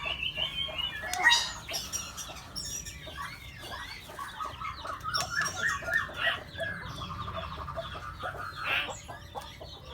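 Birds calling and chirping together in a busy mix of short repeated notes, with a quick trill about seven seconds in.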